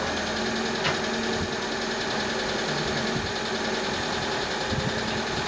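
Car engine idling steadily after a start, with one short click about a second in.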